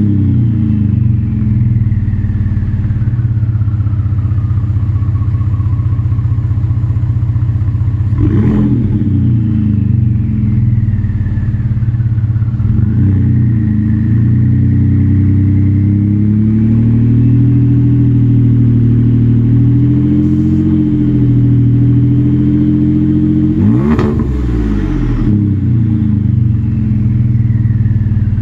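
Exhaust of a Ford F-150's 3.5L EcoBoost twin-turbo V6 through a Pypes 4-inch catback, idling with a deep drone. It is blipped sharply twice, about 8 seconds in and about 24 seconds in, and held slightly above idle for a while in the middle. A faint whistle falls slowly in pitch after each blip.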